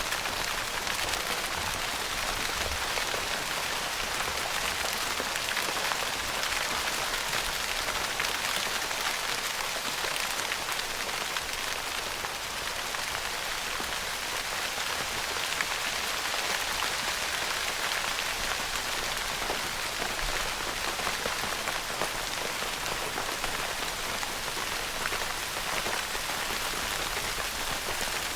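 Steady rain pattering on a tent's fabric roof, heard from inside the tent: an even hiss of many fine drop impacts that does not let up.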